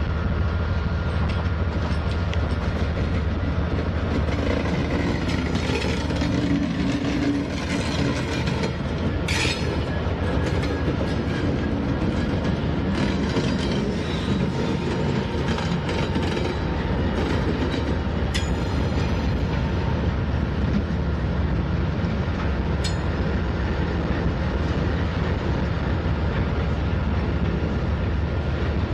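Norfolk Southern diesel-electric locomotives passing close at slow speed under power as the freight train gets under way, with a steady deep engine rumble. Wheels click over the rail joints, with a few short sharp metallic clicks along the way.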